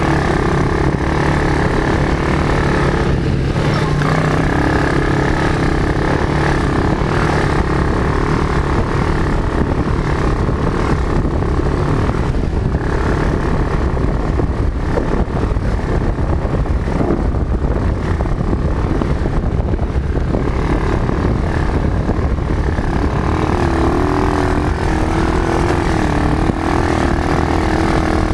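Quad bike (ATV) engine running continuously, its pitch rising and falling with the throttle, more so near the end.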